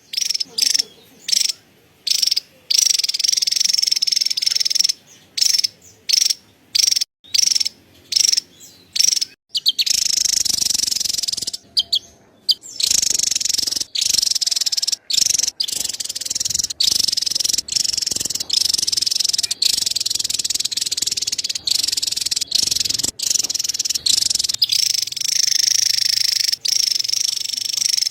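Javan tesia giving its fast, high-pitched chattering call in long runs, broken by abrupt short gaps that are frequent in the first half and rarer later.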